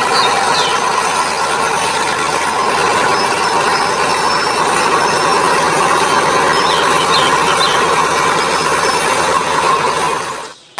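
Steady whirring of a toy vehicle's small motor and gears, running evenly. It cuts off abruptly just before the end.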